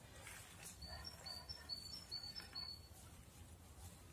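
Great tit singing faintly: a quick repeated high two-note phrase, from about a second in until near three seconds.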